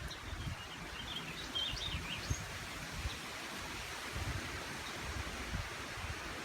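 Wind buffeting the microphone in uneven low gusts over a steady rustling hiss, with a small bird chirping a few quick high notes about a second in.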